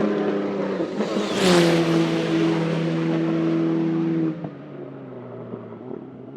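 Maserati MC12 GT1 race car's naturally aspirated V12 at high revs, passing close by about a second and a half in with a drop in pitch as it goes past. It then holds a steady note while pulling away, and fades after about four seconds.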